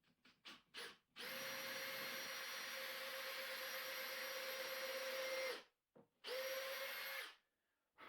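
Power drill running: three short trigger blips, then a steady run of about four seconds that cuts off, and a second, shorter run of about a second. The drill is working on pilot holes or screws in jig pieces.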